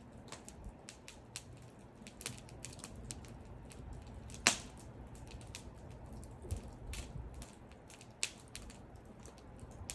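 Wood fire crackling: irregular sharp pops and snaps over a low rumble of burning, with one loud pop about halfway through.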